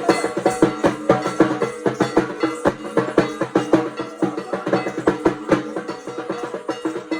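Fast percussion music: rapid, dense drum strokes over steady ringing tones, keeping up without a break.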